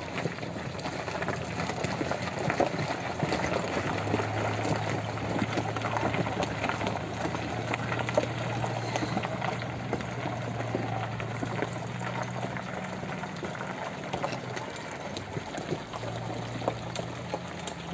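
Dense crackling, splashing water noise with many small clicks, and a low steady hum that comes in about four seconds in.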